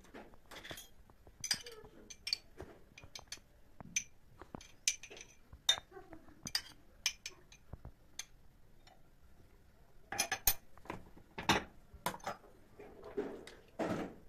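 Irregular light clinks and knocks of small hard objects, like crockery or cutlery being handled, with a denser run of louder clatters in the last few seconds.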